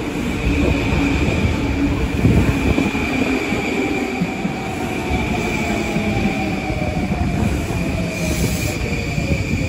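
Long Island Rail Road electric multiple-unit train moving past along the platform: a heavy rail rumble under a steady high whine, with a lower tone that falls in pitch over the last few seconds.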